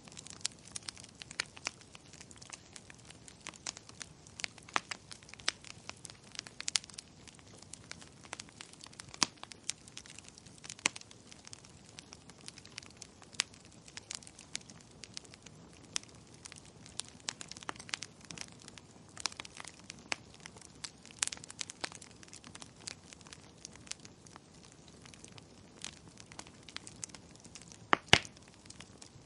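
Wood fire crackling in a fireplace: irregular sharp pops and snaps over a steady soft hiss, with the loudest cluster of pops near the end.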